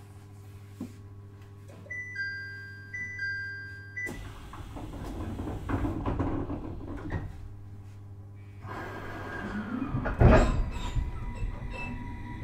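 Inside a JR East 701-series electric train car standing at a station: a steady electrical hum, a two-tone door chime sounding twice about two seconds in, then the sliding doors closing with a rush of noise and a few knocks. About ten seconds in comes a loud thump, and a steady electric whine sets in as the train starts off.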